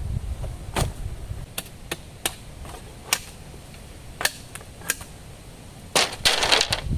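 A series of sharp knocks or cracks at irregular intervals, then a quick burst of them near the end.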